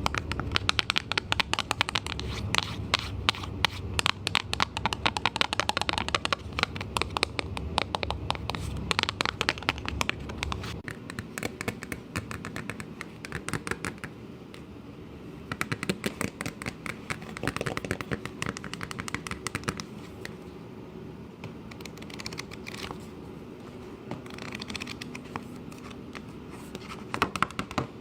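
Close-miked ASMR trigger sounds: rapid tapping and scratching. They come in a dense stream for roughly the first ten seconds, then in shorter, sparser runs with quieter gaps between.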